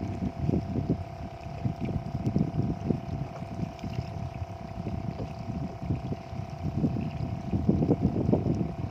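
Strong wind buffeting the microphone in uneven gusts, with a faint steady hum underneath.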